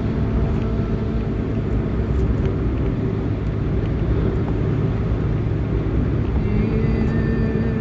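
A loud, steady low drone with a few held tones on top; a new, higher set of held tones comes in about six and a half seconds in.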